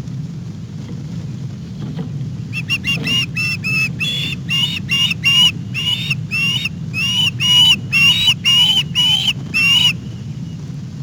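A bird calling in a rapid series of about twenty loud, harsh calls, each sliding down in pitch at its end. The calls start a couple of seconds in and stop about a second before the end, over a steady low rumble.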